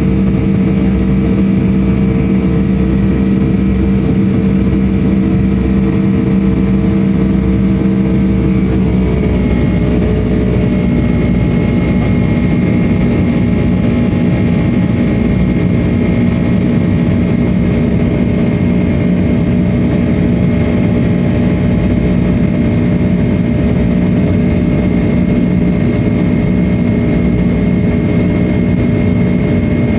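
Boeing 757-200 jet engines heard from inside the cabin, a steady hum and whine. About nine seconds in the tones rise in pitch and a broader rushing noise builds as the engines spool up to takeoff thrust.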